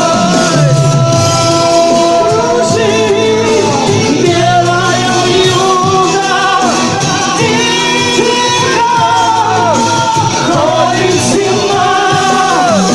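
Live band playing a slow pop-rock ballad, with a held, gliding melodic lead line over the accompaniment.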